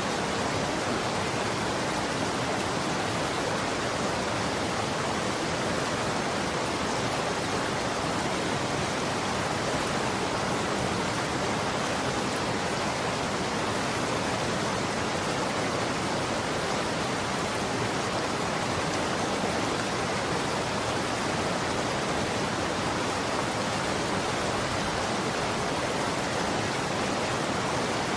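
Running water: a steady, even rush of flowing water like a stream or small waterfall, with no breaks or changes.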